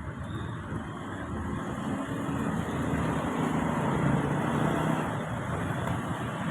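Road vehicle running: a steady engine hum with road noise that swells from about two seconds in, peaks, then eases slightly.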